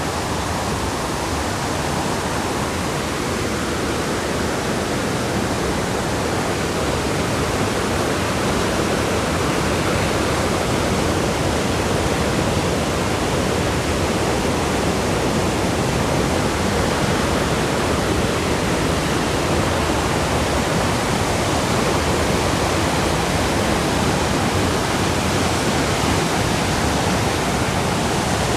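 River rapids rushing, a steady, even roar of white water.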